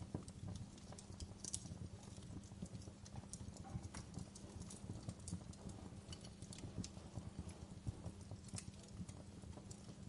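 Wood fire crackling: a low steady rumble of burning with irregular sharp pops and snaps scattered throughout, a few louder ones now and then.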